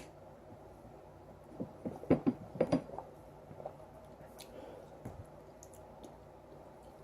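A mouthful of wax crayon being chewed: a brief run of short crunches about two seconds in, with quiet between.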